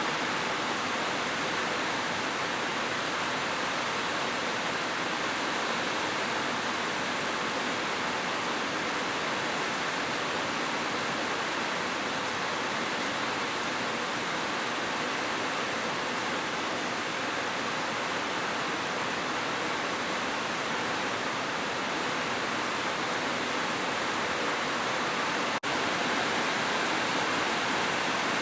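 Heavy rain falling steadily, a dense even hiss, with a brief dip in level about 25 seconds in.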